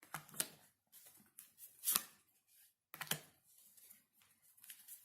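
Tarot cards handled on a table: a few sharp card snaps and taps, near the start, about two seconds in and about three seconds in, with soft sliding rustles between them.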